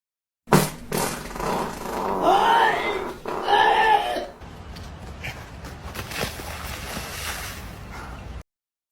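A dog vocalising: two short cries that rise and fall in pitch, about a second apart, after a sudden loud start.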